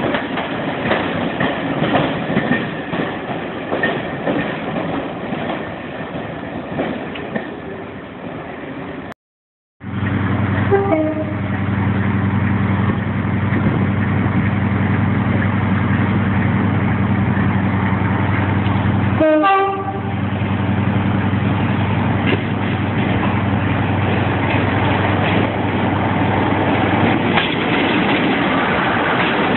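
Railway coaches rolling past with a rumble and clicking wheels. After a cut, a diesel locomotive's engine runs with a steady low hum as it draws in, with two brief horn sounds.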